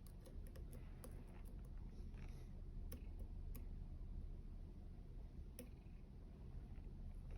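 Light clicks of a dimple pick working the pins inside a U-Shin Showa NX three-row dimple lock. A quick run of clicks comes in the first two seconds, then a few single clicks, over a steady low hum.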